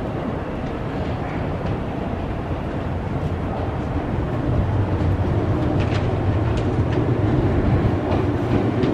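Train running on rails: a steady rumble that grows heavier about halfway through, with a few faint clicks.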